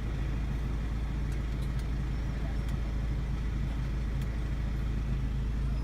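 2019 Mini Cooper S's turbocharged four-cylinder engine idling steadily, not being revved.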